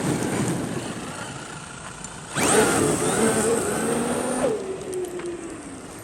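Traxxas XRT RC monster truck's brushless electric motor whining as it drives, then going to full throttle a little over two seconds in, with tires spinning on gravel, before the whine falls as it backs off.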